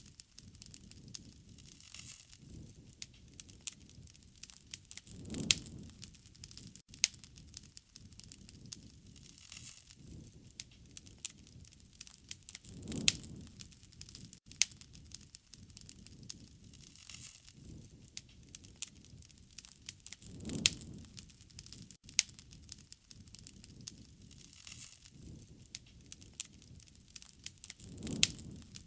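Wood fire crackling, with frequent sharp pops and snaps over a faint hiss, and a low soft rush of flame swelling and fading about every seven or eight seconds.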